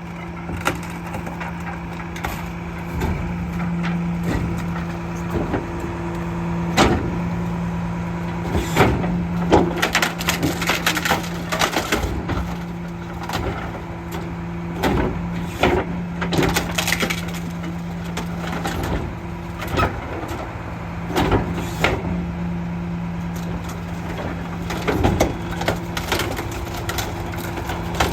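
Split-body garbage truck's engine and hydraulic packer running with a steady hum, while the refuse being compacted cracks and crunches at irregular intervals.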